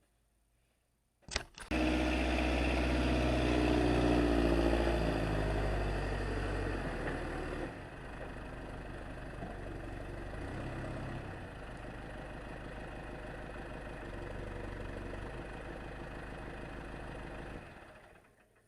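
Wood-Mizer LT35 sawmill running, its engine louder for the first several seconds and then settling to a steadier, lower level before fading out near the end.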